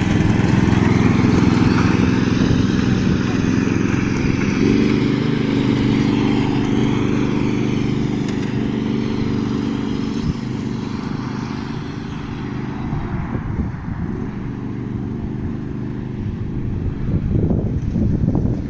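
Racing-converted riding lawn mower's engine running as the mower is driven, its note shifting a couple of times; it grows quieter past the middle and louder again near the end.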